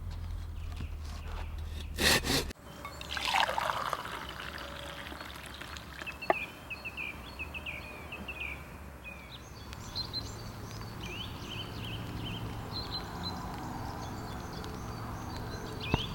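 Liquid pouring and trickling in short gurgling spurts. A brief louder noise about two seconds in.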